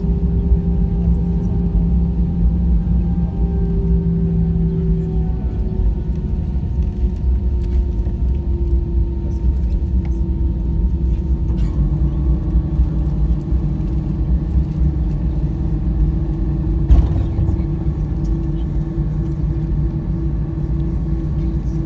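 Airbus A320-214's CFM56 engines and airframe rumbling, heard from inside the cabin as the aircraft slows on the ground after landing, the engine tone slowly falling in pitch. A single thump about three-quarters of the way through.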